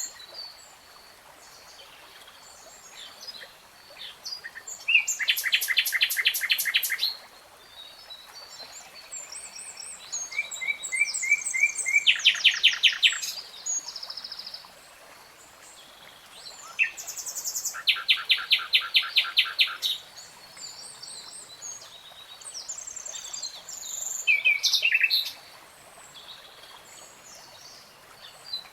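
A songbird singing in separate phrases with short pauses between them: loud runs of fast repeated notes about five, twelve and eighteen seconds in, mixed with shorter varied chirps and whistles.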